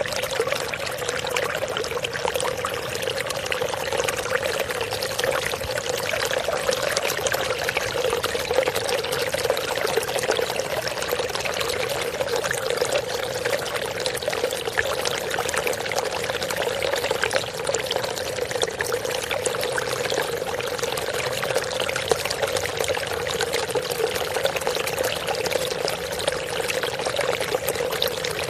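Steady running water, a continuous pouring sound with no breaks.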